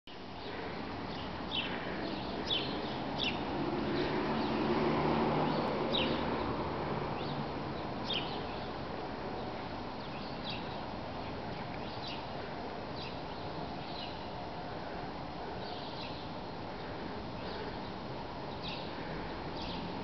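Small songbirds chirping, short sharp calls repeated every second or so, over a steady outdoor background noise. A low rumble swells and fades about four to six seconds in.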